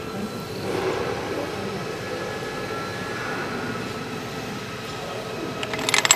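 Steady mechanical hum of running machinery with a faint held whine, then a quick run of sharp metallic clinks near the end as small metal parts or tools are handled.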